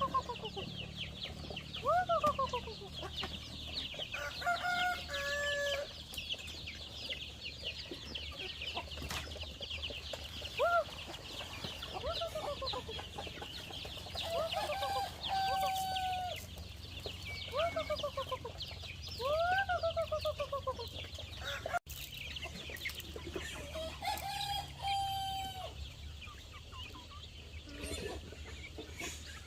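Chickens calling: short squawks that rise and fall, one every second or two, over a steady high chirping.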